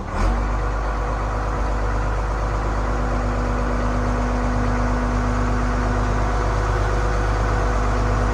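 1991 International 4900 dump truck's diesel engine running steadily while its hydraulic hoist raises the dump bed; the sound steps up right at the start as the hoist engages, then holds a constant hum with a steady tone over the rumble.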